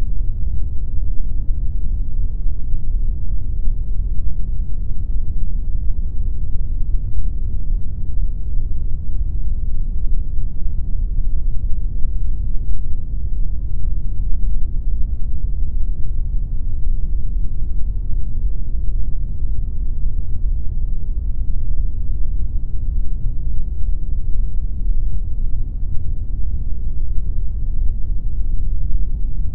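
Steady, unchanging pink noise: a continuous deep hiss with most of its weight in the low end and little treble.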